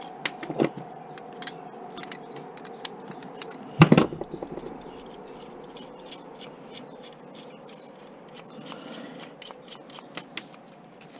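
Small metal parts being handled and worked by hand: scattered light clicks, taps and scrapes, with one louder knock about four seconds in, over a faint steady hum.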